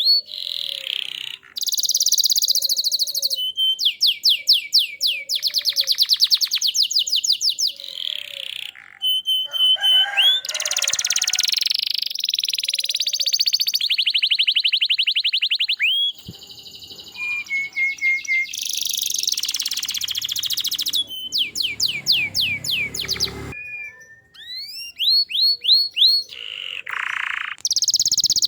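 Domestic canary singing continuously, a long song of rapid trills of repeated rising notes, buzzy rolls and whistled glides, broken by short pauses between phrases.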